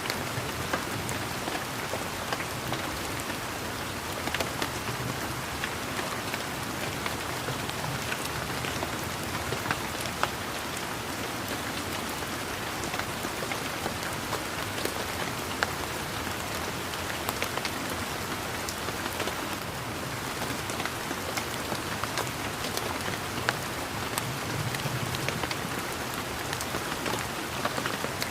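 Steady rain falling on leaves and garden surfaces, a constant hiss with many individual drops ticking close by. A faint low rumble swells up a couple of times.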